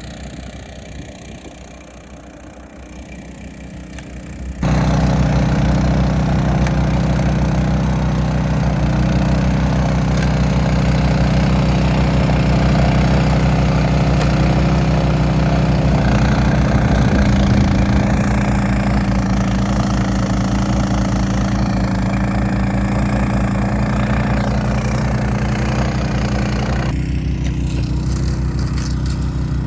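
Honda HSS1332 snowblower's single-cylinder engine running steady. It is quieter for the first few seconds, then suddenly much louder and fuller about four and a half seconds in. The pitch shifts slightly a little past halfway.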